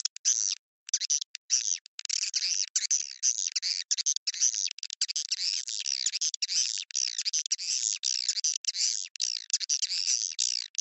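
Swiftlet lure call track: dense, rapid high-pitched swiftlet chirps and twittering used to draw swiftlets into a bird house. Short silent gaps break it up in the first two seconds, then it runs almost without a break.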